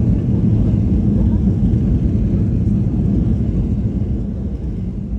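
Ryanair jet airliner's low, steady rumble, slowly fading over the last couple of seconds.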